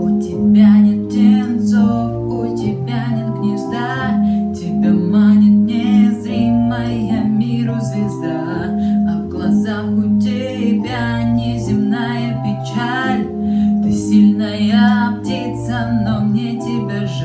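Piano cover played with an electronic keyboard sound: sustained chords over a bass line, with a regular beat about twice a second.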